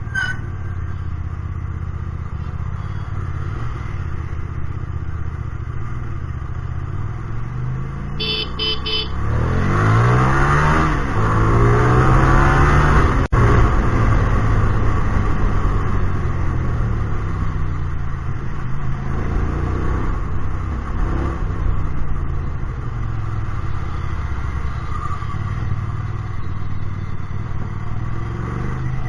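Hyosung GT250R's V-twin engine with an aftermarket exhaust, running on the move, its revs rising and falling. It climbs hard through a spell of acceleration about ten to thirteen seconds in. A short run of high beeps sounds about eight seconds in.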